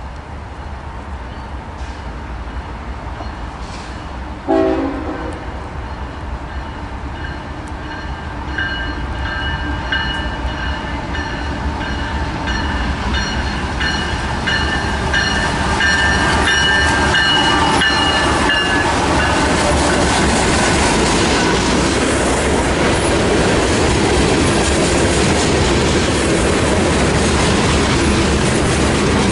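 BNSF diesel freight train passing close by. A brief horn toot comes about four and a half seconds in. A high, steady whine builds as the locomotives approach and dips slightly in pitch as they go by. Then come the loud, steady rumble and clickety-clack of the freight cars rolling past.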